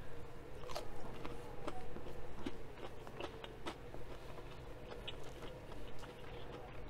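A person chewing a mouthful of crispy breaded fried chicken tender, with soft, irregular crunches and wet mouth clicks.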